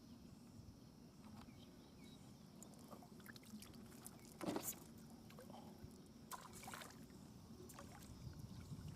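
Faint wind and small waves lapping at the water's edge, with scattered small splashes and clicks and one louder splash about four and a half seconds in.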